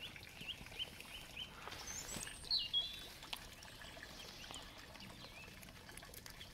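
A small songbird singing: a quick run of short rising chirps, then a louder, more varied phrase about two and a half seconds in.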